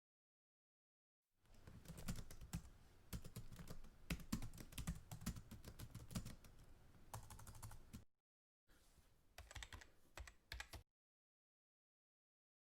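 Keyboard typing: quick, irregular keystroke clicks in two runs, a longer one starting about a second and a half in and a shorter one after a brief pause.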